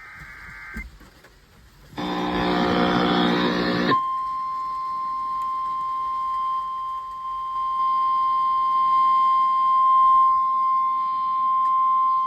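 Emergency alert broadcast over the radio, announcing a flood warning: a harsh buzzing burst lasting about two seconds, then a single steady alert tone held for about eight seconds.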